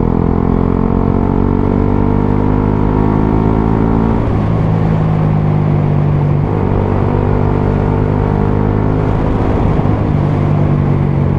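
125 cc single-cylinder motorcycle engine running under way, its note creeping up in pitch and then changing about four seconds in, again around six and a half seconds and near the end as the throttle and gears change.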